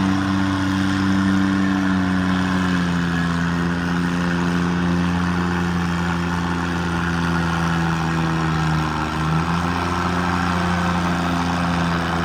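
Garden tractor engine running steadily, its note dropping slightly about three seconds in.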